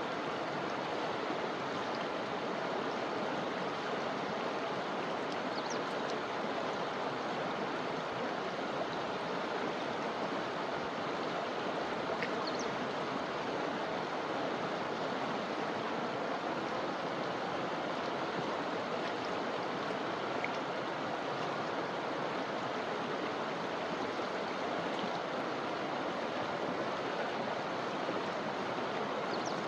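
Forest river flowing, a steady rush and gurgle of water over rocks, with a few faint short high chirps now and then.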